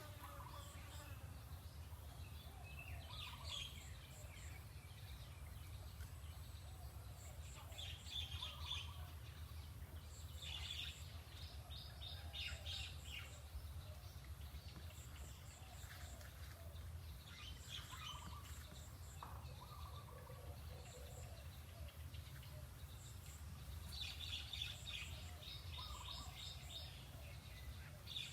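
Birds chirping in short clusters every few seconds, over a steady low hum.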